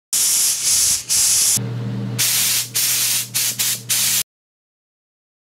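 Loud hissing in a series of bursts separated by short breaks, with a low hum underneath for about half a second near the middle. It cuts off abruptly about four seconds in.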